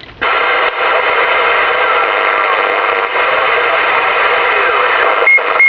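CB radio receiver hiss and static that cuts in just after the start, with a weak distant station's transmission buried in the noise and too faint to make out. A brief high tone sounds twice near the end.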